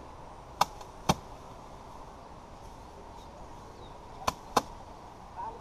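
Sharp knocks from rice paddy being worked by hand: four hits in two pairs, one pair near the start and one about three and a half seconds later, over a quiet outdoor background.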